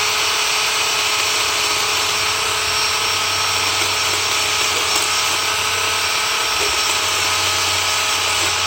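Battery-powered cordless chainsaw running at a steady full-speed whine as it cuts into the trunk of a dead tree.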